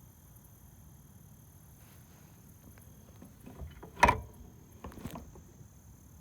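A sharp, loud knock just after four seconds in, with a few lighter knocks before and after it, over a low steady hum.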